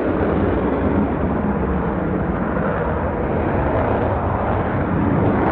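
Jet noise from a Dassault Rafale's twin M88 turbofan engines: a steady, even rumble that neither rises nor falls.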